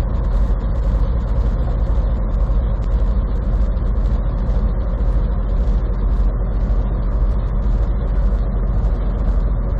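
Steady road noise inside the cab of a gasoline vehicle towing a camper trailer at highway speed: engine and tyre noise, strongest in the low end, with no change in pace.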